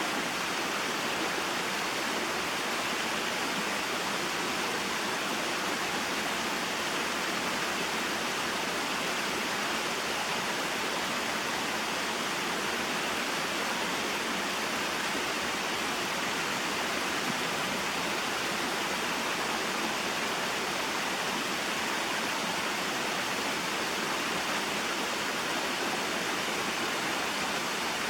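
Small waterfall and mountain stream: water falling and flowing steadily, an even, unchanging rush.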